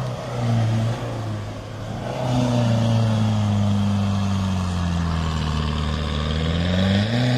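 An off-road 4x4's engine revving hard as the vehicle takes a run-up. Its pitch slowly drops over several seconds as it loads up, then climbs again near the end.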